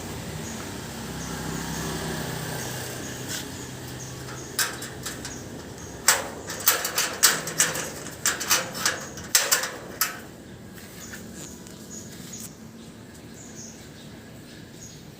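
A run of sharp metallic clicks and clatters from an aluminium-and-wire animal cage being handled, its door and frame knocking. A few single clicks come first, then a quick burst of about ten loud knocks in the middle.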